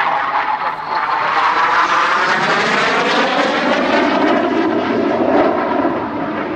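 A BAe Hawk Mk 51 jet trainer's Rolls-Royce Turbomeca Adour turbofan flying past loud, with the pitch of the jet noise sweeping slowly downward as it goes by.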